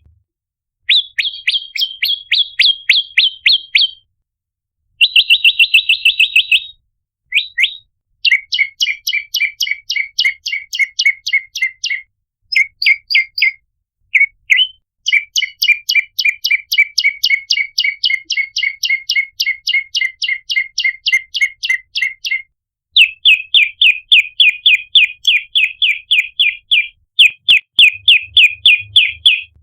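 Prenjak lumut (red-headed prenjak) calling loudly: fast trains of sharp, repeated chip notes, about five or six a second, in runs of a few seconds broken by short pauses.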